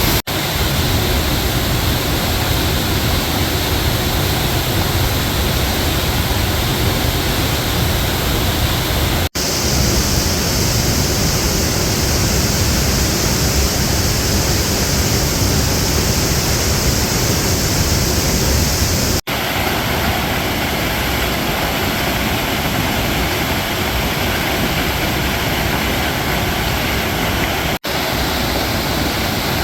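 Waterfall, a loud, steady rush of falling water. It breaks off for an instant three times where shots are cut together, and the sound's character shifts slightly after each cut.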